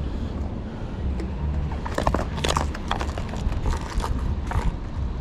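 A steady low rumble, with bursts of sharp clicks and scrapes about two seconds in and again near four seconds.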